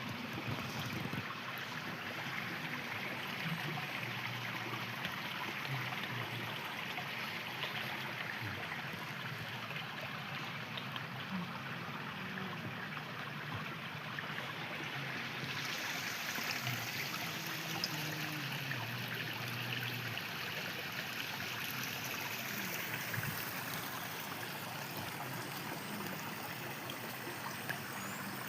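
River water flowing over stones, a steady rushing and trickling.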